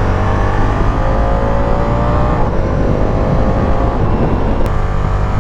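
Ducati Diavel V4's V4 engine accelerating under load, its pitch rising, dropping briefly about two and a half seconds in at an upshift, then rising again before easing off near the end.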